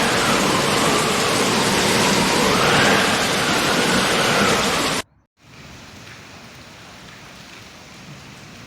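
Heavy rain pouring, loud and steady, with a faint wavering whine underneath. About five seconds in the sound cuts out briefly and comes back as quieter, steady rain.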